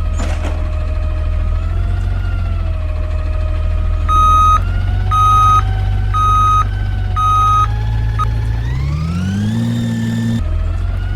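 Side-loading garbage truck's engine running steadily, with four reversing beeps in the middle, each about half a second long and a second apart. Near the end the engine revs up in a rising pitch, then cuts back suddenly.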